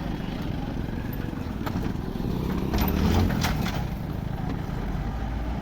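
Road vehicles' engines running in a steady low rumble, with scattered sharp clicks and a swell in loudness about halfway through.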